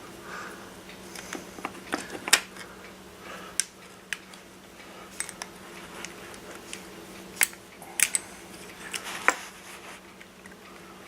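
Small metal tools and parts clicking and clinking during hand assembly of an RC crawler's motor mount: a string of sharp irregular taps, several of them louder, a second or more apart.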